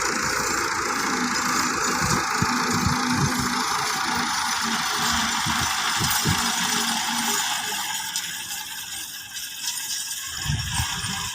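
Massey Ferguson 375 tractor's Perkins diesel engine running while pulling a heavily loaded trolley, with rattling and knocking over a steady hiss. It gets a little quieter after about eight seconds.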